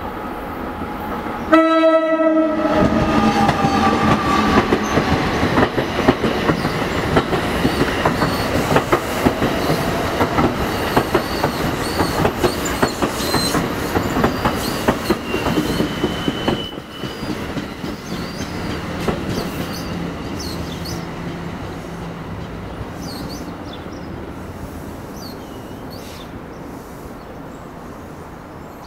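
New Jersey Transit electric commuter train giving a short horn blast about two seconds in, then passing at speed with its wheels clicking over the rail joints. The noise drops off suddenly past the middle and fades away toward the end.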